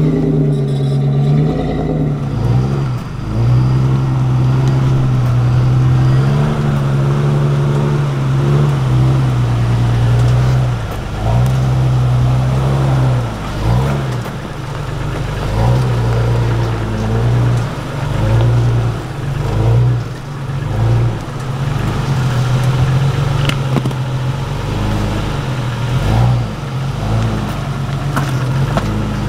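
An off-road 4x4's engine working under load, its pitch rising and falling as the throttle is blipped and eased while the vehicle crawls over rough ground.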